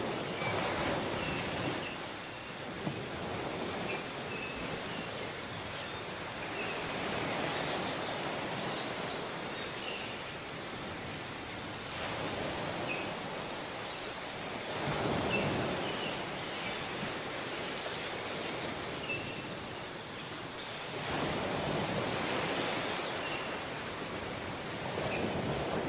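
Tropical beach ambience: waves washing onto the shore, each surge swelling about every six to eight seconds, with scattered short high chirps and a thin steady high-pitched hum over the top.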